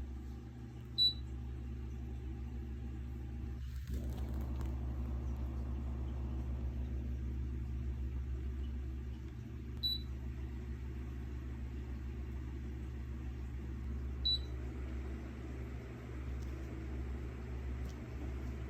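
Electric fan running with a steady hum and whoosh of moving air, its control beeping three times as the fan speed is raised; the airflow noise grows after the first beep.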